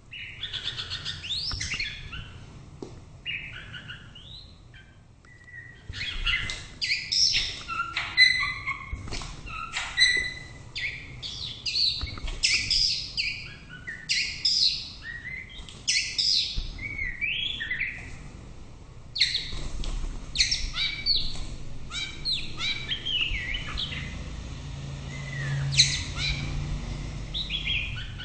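White-rumped shama singing: a long, varied song of quick fluty whistles, trills and chattering phrases, one after another with brief pauses.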